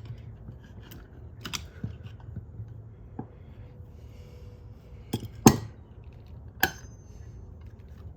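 A few sharp clicks and knocks as 4L60E transmission pump parts are handled and fitted by hand, the loudest about five and a half seconds in, over a low steady hum.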